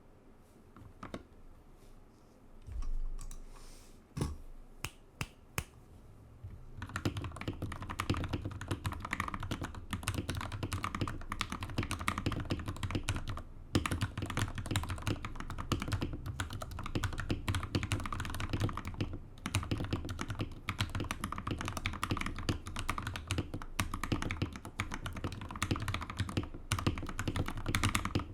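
Mechanical keyboard being typed on: a Gamakay LK67 with lubed Gateron Ink Black V2 linear switches, an aluminium plate and Japanese-profile keycaps, giving a deep, thocky keystroke sound. The first several seconds hold only a few scattered keystrokes and a low thump, then fast continuous typing begins about seven seconds in.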